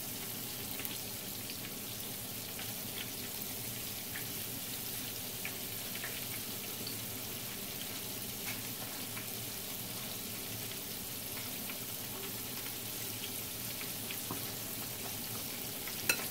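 Chicken pieces frying in hot oil in a skillet: a steady sizzle with small scattered pops and crackles.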